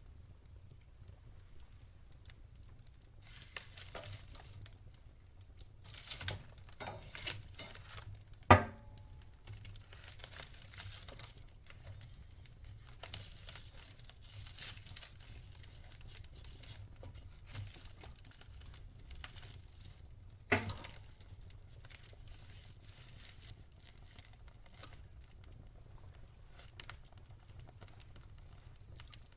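Campfire crackling: a soft hiss with scattered small snaps, and two sharp pops, one about eight and a half seconds in (the loudest) and another about twenty seconds in.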